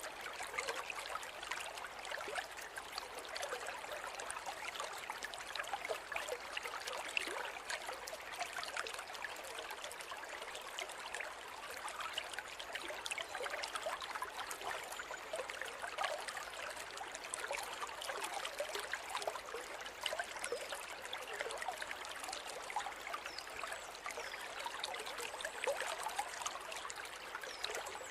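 River water flowing steadily over rocks, a continuous babbling with many small splashes and trickles.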